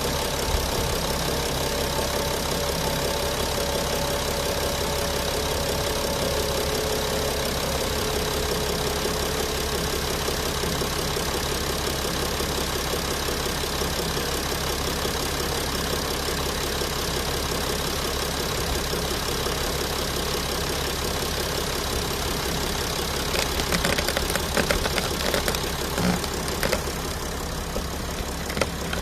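Mercedes-Benz Sprinter van engine idling steadily just after start-up, with its freshly changed oil circulating. A few short knocks sound a few seconds before the end.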